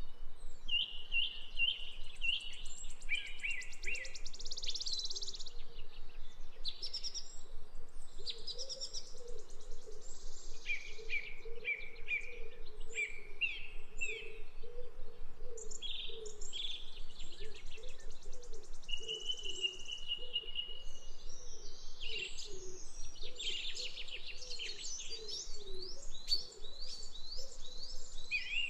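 Several birds singing and calling: varied chirps and quick trilled phrases, one after another. Beneath them, a lower note repeats steadily from about four seconds in.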